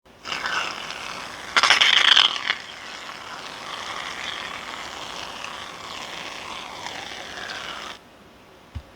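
Clear slime being squished and worked by hand, with a louder crackling, squelching stretch about a second and a half in that lasts under a second. The sound stops about a second before the end.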